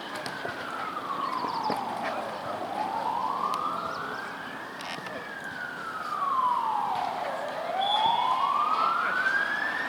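A siren wailing, its pitch sliding slowly down and back up twice, each rise and fall taking about five seconds.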